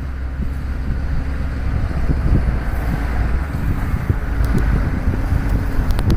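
A four-wheel-drive vehicle approaching along a sand track, its engine running steadily, heard under a low wind rumble on the microphone.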